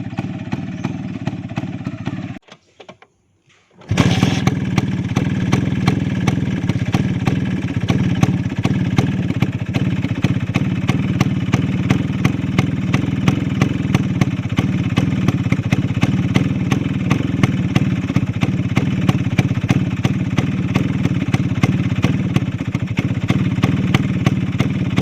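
Vespa Sprint Veloce's 150cc two-stroke single idling through a Polini Big Box exhaust, a steady low exhaust note with rapid, even pops. The sound cuts out for about a second and a half near the start and comes back suddenly.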